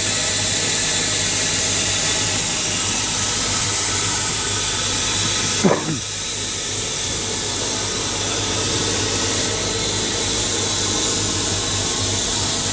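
Steam engine letting off steam: a loud, steady hiss over a low hum. A brief falling tone sounds about six seconds in.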